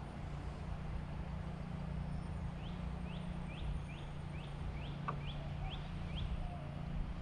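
A bird calls a quick series of about nine short rising notes, roughly two or three a second, over a steady low rumble. There is a single click about five seconds in.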